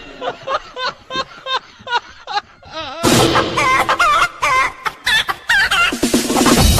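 Chickens clucking in short, pitched calls, with a sudden jump to louder calls about halfway through. Electronic music with a beat comes in near the end.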